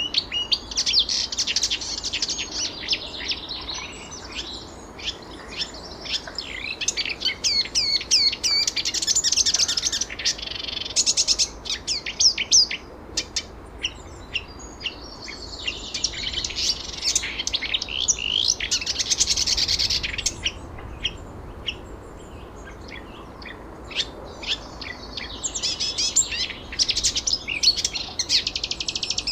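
Birds chirping and singing, with rapid high chirps in long bouts that come and go, quieter for a few seconds in between.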